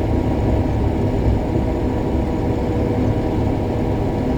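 Combine harvester running steadily while harvesting soybeans: a continuous heavy engine and machinery drone with a faint steady hum over it.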